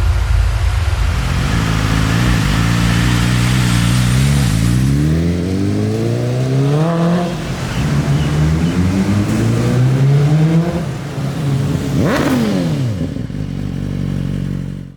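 BMW S1000RR superbike's inline-four engine accelerating hard through the gears, the pitch climbing and dropping back at each shift. Near the end it passes by with a quick fall in pitch.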